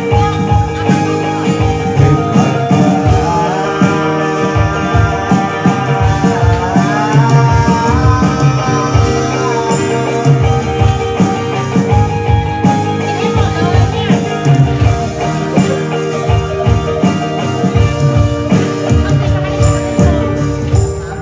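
A rock band's instrumental break: a guitar line with sliding, rising notes over a steady drum beat.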